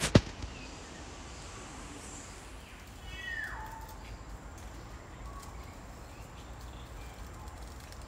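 Rainforest ambience: two sharp clicks right at the start, then a bird's single whistled call about three seconds in that slides down from high to lower pitch, with faint other bird notes around it.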